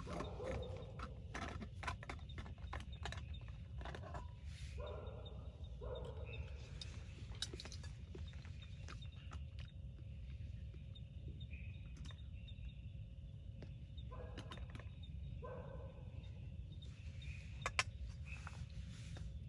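Steady rain with many scattered drip clicks, and an animal calling twice in short pairs of notes, a few seconds in and again later.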